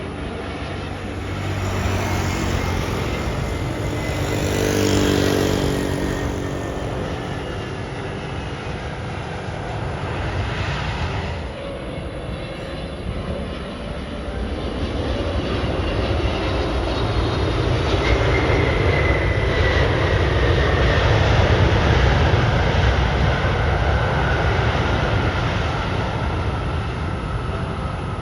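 Jet airliner engines as aircraft pass by the runway: a continuous roar with a whine that glides down in pitch. It swells about five seconds in, then grows louder again through the second half.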